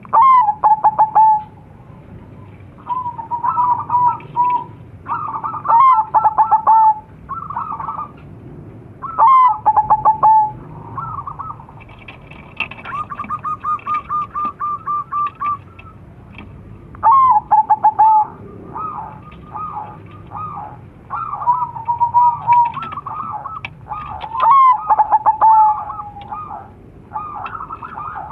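Crossbred zebra doves (perkutut) cooing and answering one another: about ten staccato coo phrases a few seconds apart, most ending in a drawn-out falling note, with a fast run of short even notes about halfway through.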